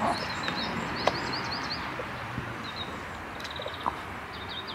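Small songbirds singing outdoors: repeated high, wavy chirping phrases. A few sharp clicks stand out above the birdsong.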